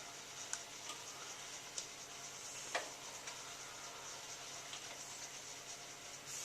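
Hotpoint 9534A washing machine tumbling its drum during a wash: a steady, faint swishing hiss of water with a few light clicks and knocks spread through.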